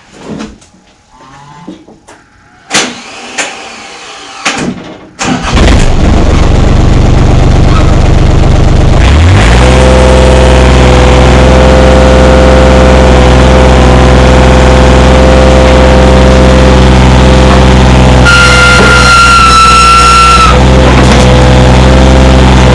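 A Takeuchi TB025 mini-excavator's diesel engine cranks and starts about five seconds in, after a few light knocks, then settles into a steady run. Near the end a high, steady whine sounds over the engine for about two seconds.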